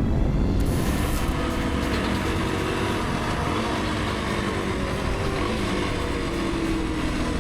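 A motorcycle under way, its engine running, with wind rumble on the helmet-camera microphone; the engine pitch falls slightly near the end as it eases off.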